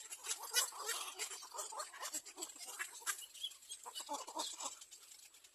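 Birds calling with many short, irregular clucking and clicking notes.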